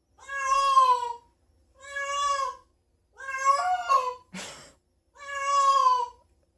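A cat meowing four times, each meow a drawn-out call of about a second, with a brief scratchy noise between the third and fourth.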